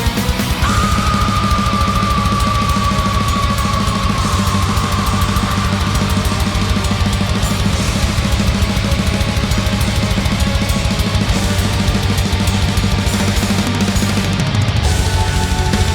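Extreme metal music with very fast, dense drumming and heavy distorted guitars. A long high held note enters about half a second in and slides slowly downward over several seconds.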